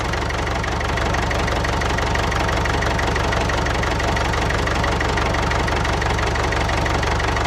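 Engine idling steadily, with a fast, even knocking beat over a low rumble.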